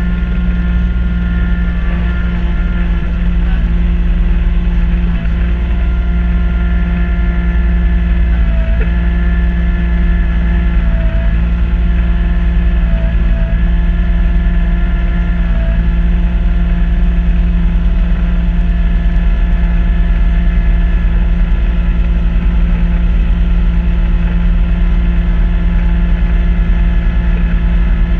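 Kubota B2650 compact tractor's three-cylinder diesel engine running steadily at working speed, driving its front-mount snow blower, with the engine note dipping briefly a few times in the middle.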